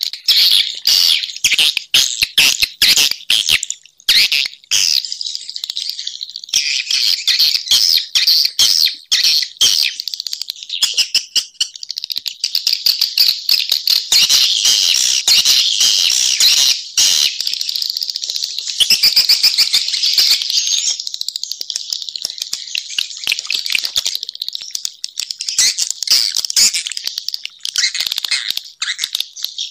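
Edible-nest swiftlets twittering in a dense, unbroken chorus of rapid, high chirps and clicks: a swiftlet calling track, the kind played to lure swiftlets into a nest house.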